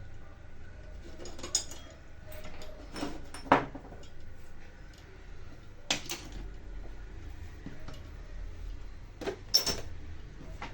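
Scattered metallic clinks and knocks of small parts and tools being handled, about six in all, the loudest about three and a half and nine and a half seconds in. The grinder itself is not running.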